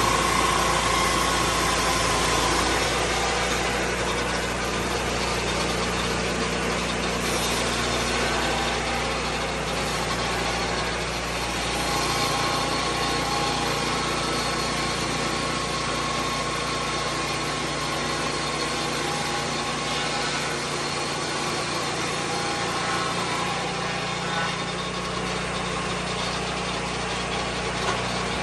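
Engine of a Lucas Mill 10-30 swing blade sawmill running steadily, with a slight change in its low pitch about halfway through.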